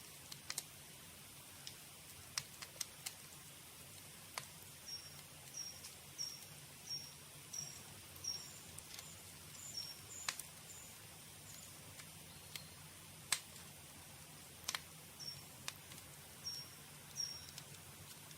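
Wood campfire crackling, with irregular sharp pops and snaps over a steady low hiss. A bird calls a run of short high chirps, evenly spaced, through the middle and again near the end.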